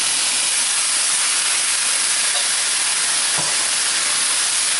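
Sabudana khichdi sizzling in a hot pan with a steady hiss, just after water has been drizzled over it.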